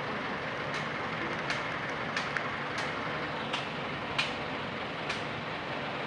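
Seven sharp knocks, roughly a second apart or less, over a steady rushing noise: a cutting tool striking the wood of a star apple tree.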